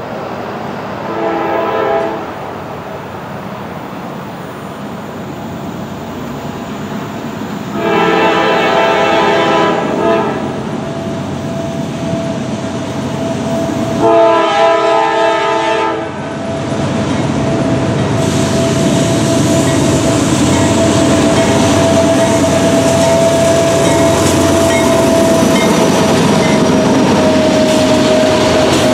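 Diesel freight locomotive's air horn blowing three chords: a short blast, then two longer ones about six seconds apart, the usual warning for a grade crossing. From about halfway the train rolls past with a steady, loud rumble and rail clatter of its autorack cars.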